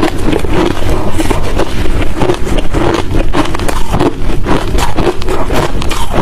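Hard crushed ice being chewed close to the microphone: continuous, dense, crunchy cracking, several bites' worth of crunches every second.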